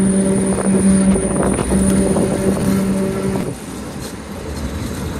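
Narrow-gauge electric train running, heard through an open carriage window: wheel and track rumble under a steady hum. About three and a half seconds in, the hum stops and the sound drops to a quieter rumble.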